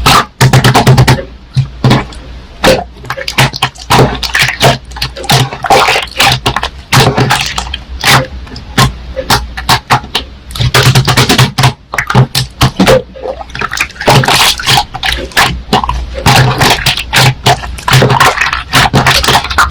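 Slime being squeezed and pressed by hand, giving a dense run of sticky, wet pops and crackles.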